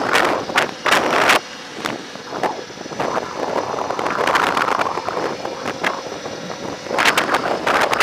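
Wind buffeting the microphone while riding an electric motorcycle, a rough gusty rush that is strong at first, eases off for a few seconds in the middle and builds again near the end.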